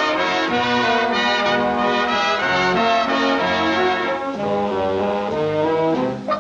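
Brass-led orchestral cartoon music, with trombones and trumpets playing full held chords. Near the end it gives way to short, detached notes.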